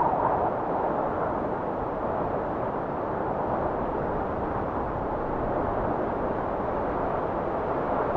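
Blizzard wind blowing steadily, a rushing noise whose higher whistle eases off in the first half second.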